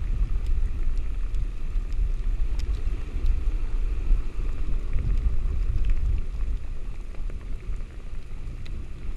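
Heavy rain with scattered drops clicking, over a steady low rumble of wind and surf.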